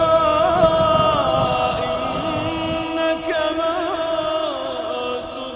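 Solo male voice chanting Quranic recitation in long held, melodic notes with ornamented trills, in the drawn-out tajwid style. A low rumble lies under the voice and fades about two seconds in.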